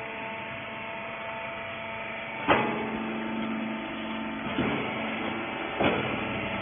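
Hydraulic rag baler running: a steady hum from its motor and pump with several held tones, broken by three sharp knocks, the loudest about two and a half seconds in.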